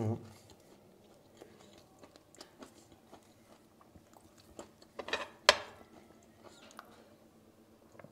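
A person chewing a mouthful of toasted sandwich with a crisp crust, with small crunches throughout and a louder crunch about five and a half seconds in.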